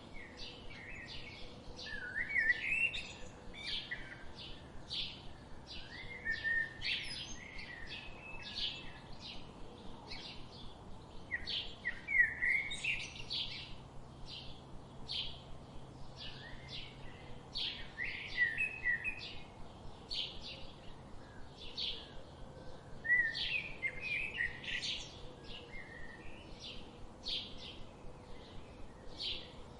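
Small birds chirping: a constant stream of short, high chirps several times a second, with a louder warbling song phrase breaking in every five or six seconds.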